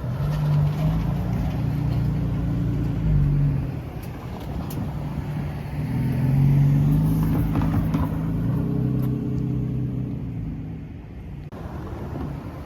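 A motor vehicle engine running and pulling away twice, its low drone stepping in pitch.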